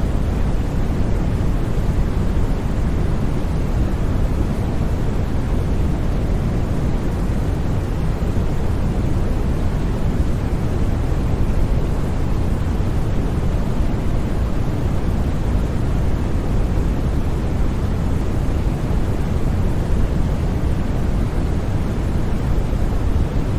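Continuous, unchanging noise track played for sleep, weighted toward the low end as a deep, even rush with no tones, rhythm or sudden sounds.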